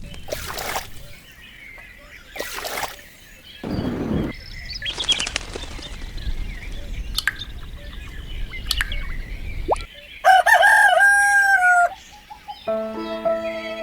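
Sound-effect sequence: several quick whooshing, flapping sounds, then a rooster crowing about ten seconds in, followed near the end by string music starting.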